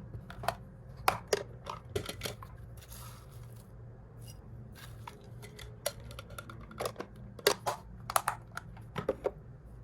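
Dry hamster food and plastic storage jars being handled while a meal is portioned out: scattered small clicks, taps and rustles at irregular intervals, over a steady low hum.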